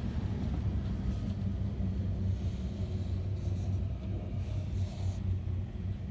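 Odakyu commuter train running along the line, heard from inside the rear cab: a steady low rumble of wheels on rail with a constant low hum.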